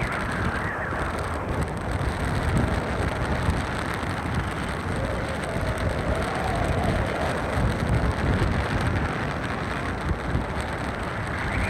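Strong mountain wind: a steady rush with heavy low rumble and buffeting on the microphone, and a faint moaning whistle that rises and falls around the middle.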